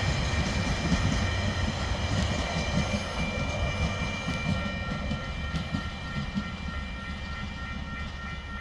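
Freight train rolling past on the climb, a low rumble with wheels clacking over rail joints that slowly fades, over steady high squealing tones. From about a third of the way in, a high tone pulses on and off regularly.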